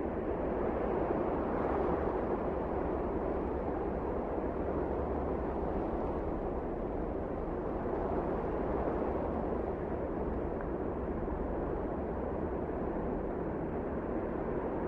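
Steady wind, a low even rushing that swells slightly about two seconds in and again around eight seconds.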